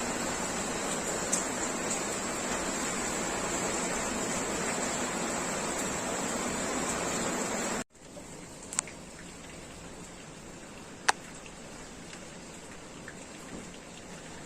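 Steady rain falling, heavy at first, then cut off abruptly about halfway through to a lighter rain with a few sharp drips.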